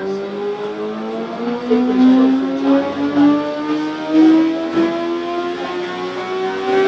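Sport-bike engine at full throttle on a chassis dyno during a dyno pull, its pitch climbing steadily without a break.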